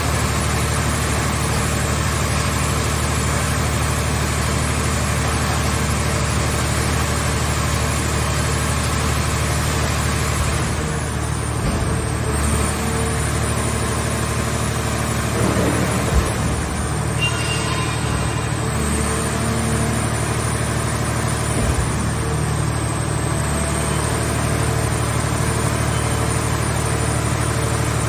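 Engine of a mobile car-shell baler running steadily, with a couple of brief knocks partway through.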